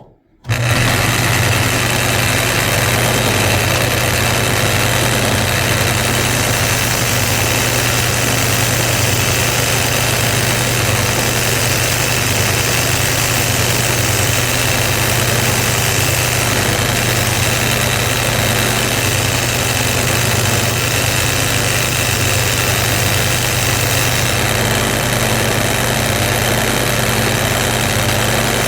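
A motor-driven wire wheel, such as a bench grinder, runs at constant speed, cleaning rust and grime off suspension bolts. It starts abruptly near the beginning, and its steady motor hum carries a continuous hiss from the brushing.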